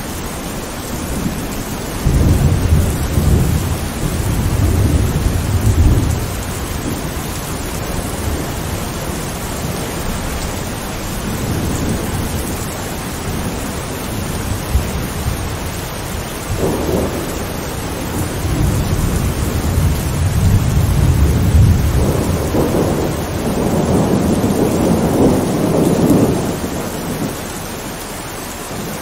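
Thunderstorm: steady rain with thunder rolling twice, a rumble about two seconds in lasting some four seconds, and a longer, deeper roll starting about two-thirds of the way through.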